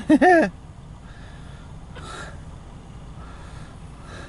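A person's short wordless vocal sound, rising then falling in pitch, followed by a steady low background rumble.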